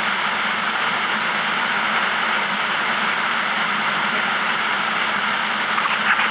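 Steady roar of a flash-flood waterfall pouring down a slickrock canyon drop into the main pothole stream below.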